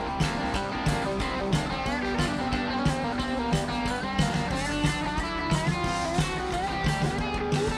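Country-rock band playing live, an instrumental stretch with guitars over a steady drum beat.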